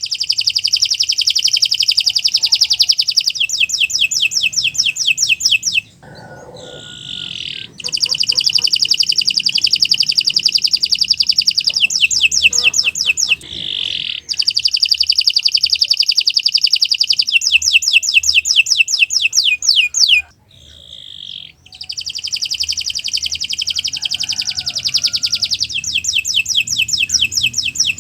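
Domestic canary singing long phrases of rapid trills and fast repeated high notes, several seconds each, broken by short softer pauses.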